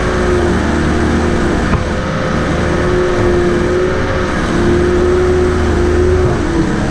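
An engine running steadily at a constant speed, loud, with a low hum under it.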